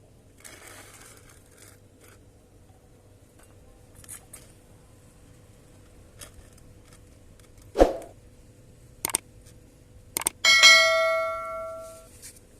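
Metal tools handled in a workshop: a sharp knock, a few clicks, then a metal object struck and ringing like a bell, fading over about a second and a half. A faint steady hum runs underneath.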